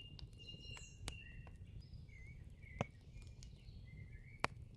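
Faint outdoor nature ambience: thin bird chirps with a handful of scattered sharp pops.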